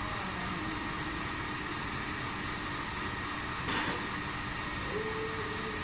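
A machine running with a steady hum and hiss, and a single sharp clink about two-thirds of the way through.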